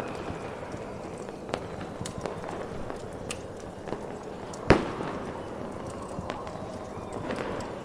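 Fireworks going off over a steady hiss, with scattered sharp pops and one much louder bang about two-thirds of the way through that rings on briefly.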